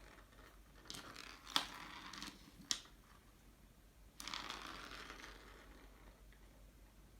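Dry rustling and scraping in two bursts, with two sharp clicks about a second apart in the first burst.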